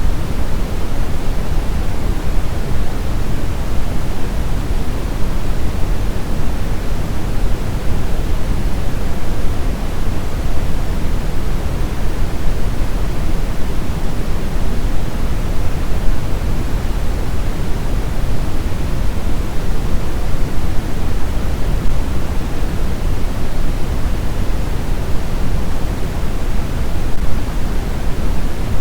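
Steady synthetic brown noise: an even, unchanging deep rushing hiss, strongest in the bass and falling off toward the treble.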